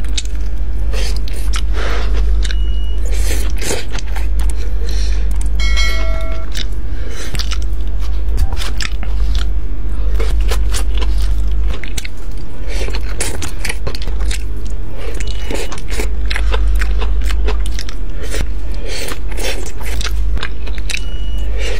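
Close-up eating sounds: irregular bites, crunches and chewing, over a steady low hum. A short ringing tone sounds about six seconds in.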